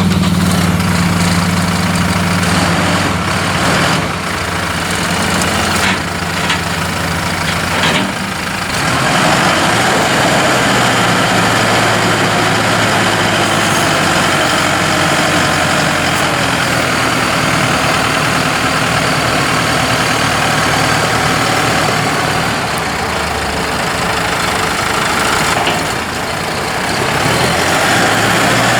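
New Holland T4.75 tractor's diesel engine running, its note shifting several times, with more noise from about nine seconds in.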